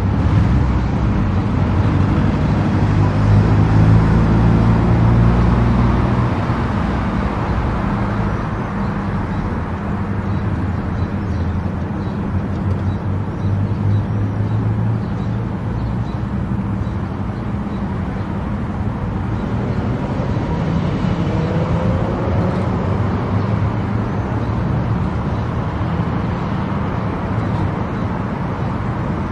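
Car driving at highway speed: steady engine hum and tyre and road noise, a little louder for the first six seconds or so.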